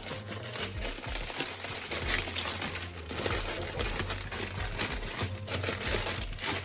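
Crinkling and rustling with many small clicks, close to the microphone, over a low steady hum.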